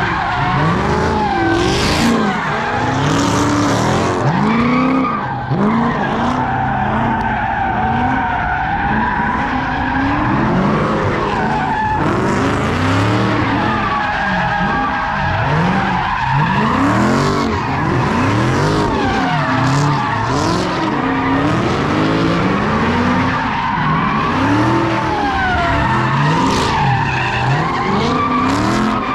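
Cars doing donuts and burnouts: engines revving up and falling back again and again under a continuous squeal of spinning tyres.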